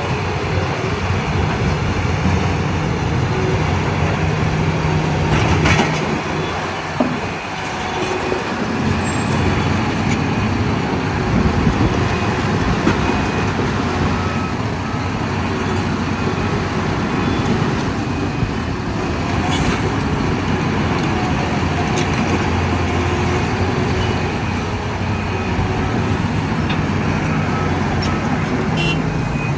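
Heavy diesel engines of an excavator and truck running steadily under load during truck loading, with a few brief sharp knocks.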